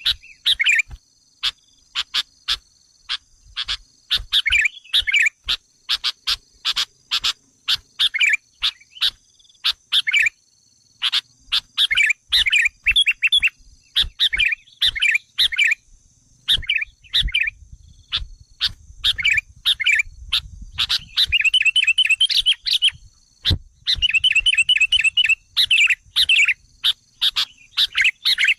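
Sooty-headed bulbuls calling over and over: short call phrases mixed with sharp clicking notes, and bursts of rapid chattering in the second half. These are the agitated calls a bulbul lure recording uses to provoke wild birds.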